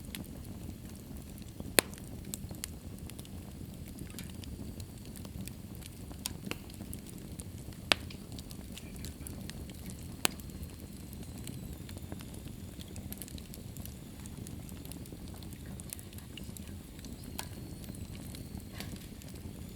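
Wood fire burning in a fireplace: a steady low rush of flames with scattered small crackles and three sharp pops, at about two, eight and ten seconds in.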